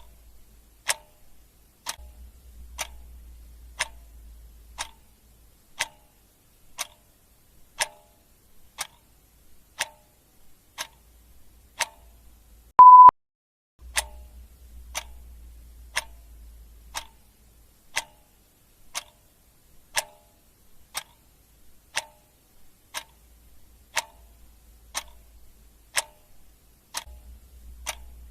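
Clock ticking steadily, one tick a second, with a single short beep about halfway through.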